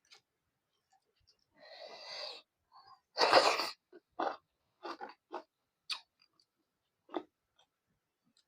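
Close-up mukbang eating sounds: a loud, sharp breath about three seconds in, probably a hard exhale or sniff, followed by a run of short wet chewing and lip-smacking clicks.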